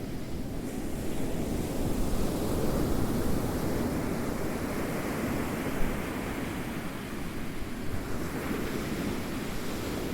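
Ocean waves rolling onto a shore, a steady low rush that swells and eases, building again near the end.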